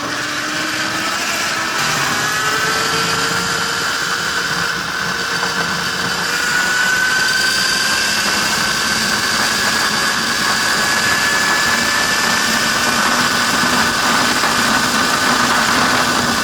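Tuttio Soleil01 GB electric dirt bike's motor whining as it rides, with wind and tyre noise from the trail. The whine climbs slowly in pitch over the first half, then holds steady. The bike is running unlocked, which makes it a little bit noisy.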